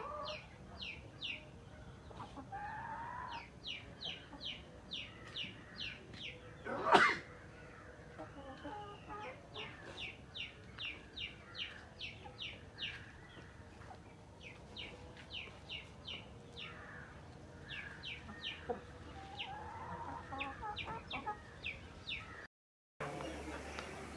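Parrot beak Aseel chickens clucking, over a continuous run of short high peeping chirps, about two or three a second. One loud call about seven seconds in; near the end the sound cuts off abruptly.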